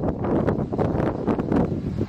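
Gusty wind buffeting the microphone, a rumbling noise that swells and dips irregularly.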